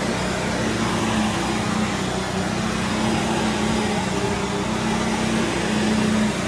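Vacuum cleaner running steadily over carpet, a constant motor hum with even airflow noise, and a pressure washer adding a steady hiss in the background.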